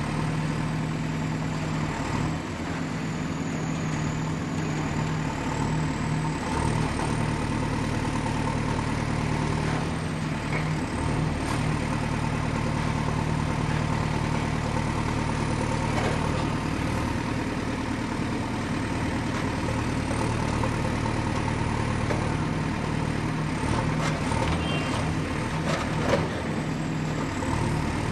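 Excavator's diesel engine running steadily, with a few short knocks near the end.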